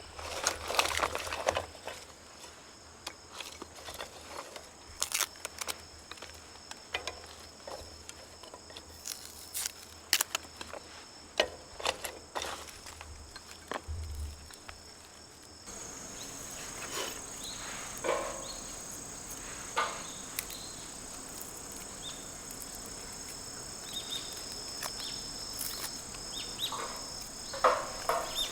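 Insects chirring steadily with a thin high drone, louder after about halfway. Scattered short sharp clicks and crackles run over it.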